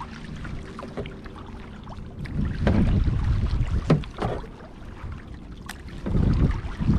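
Kayak paddle strokes through lake water: two swells of splashing a few seconds apart, with drips and small knocks of the paddle in between.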